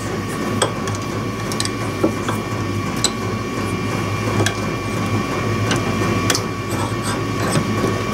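A steady electrical hum with a couple of faint steady tones above it, and scattered light clicks and knocks of small tools and wire being handled at a workbench.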